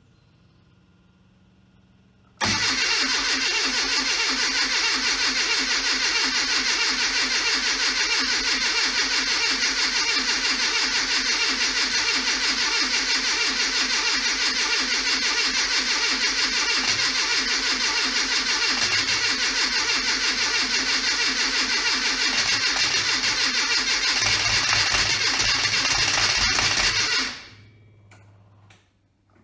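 Classic Mini A-Series engine cranked on its starter motor for about 25 seconds, turning over with an even chugging rhythm but not catching, on a first start attempt after a rebuild; the cranking starts about two seconds in and stops abruptly near the end.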